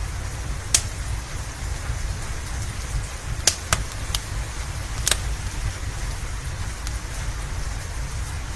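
Steady rain with a low rumble beneath it, and a handful of sharp pops from a crackling wood fire, the loudest about a second in and others around three and a half and five seconds in.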